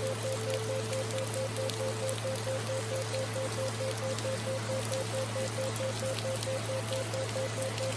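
Steady recorded rain, mixed with synthesized theta-wave brainwave tones: a low steady drone and a higher tone pulsing several times a second.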